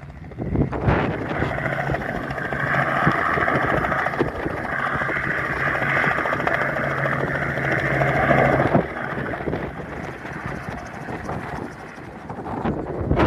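Helicopter running in flight, a steady drone with a higher whine over a low hum, and wind buffeting the microphone. About nine seconds in the whine drops away, leaving mostly wind and rumble.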